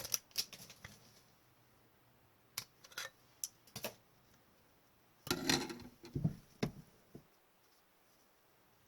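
Scattered light clicks and taps from handling trading cards and a plastic card holder. A denser run of clicks comes about five seconds in.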